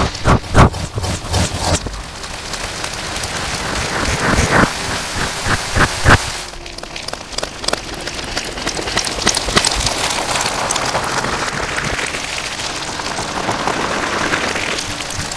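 Slime being squished and stretched close to the microphone, making wet crackling and popping. A run of loud squelches comes in the first six seconds, then a steadier fine crackle.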